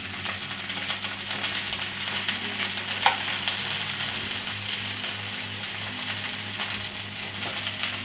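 Okra frying in hot oil in a kadhai: a steady sizzle full of small crackles. There is one sharp clink about three seconds in.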